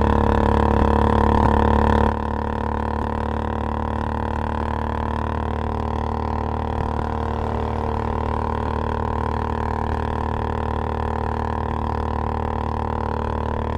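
Royal Enfield Bullet Classic 350 single-cylinder engine running steadily with a loud exhaust note. It is louder for the first two seconds, then drops suddenly to a steady, quieter run.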